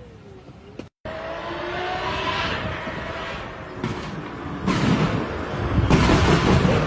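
A hypercar's high-performance engine revving, its pitch gliding up and down after a sudden cut-in about a second in. It grows much louder in the last couple of seconds.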